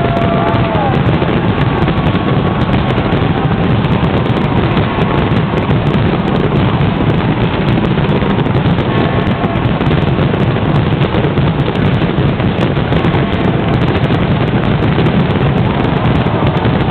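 A dense fireworks barrage, the bangs running together into one loud, steady rumble, with sharp crackles all through.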